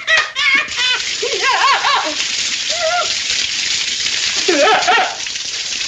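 Steady hiss of spraying water, with a man's short wavering wordless vocal cries over it three or four times.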